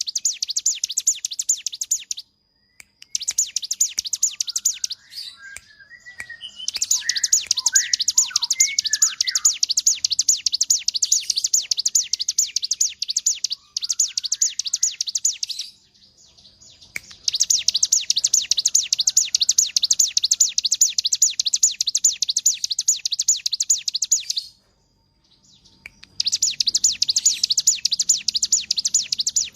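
Ciblek gunung, a prinia, singing in long bursts of very fast, high, rattling trills several seconds long with short pauses between them, the continuous 'ngebren' or 'konslet' song prized by bird keepers. Scattered lower chirps join in about five to ten seconds in.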